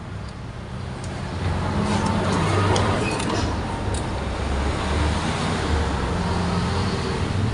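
A vehicle engine running steadily, growing louder over the first second or two, with a few light clicks.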